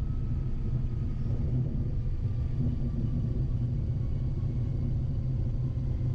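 Steady low rumble in the cockpit of a Cessna Citation Excel jet rolling out on the runway after touchdown, with faint steady whine tones above it.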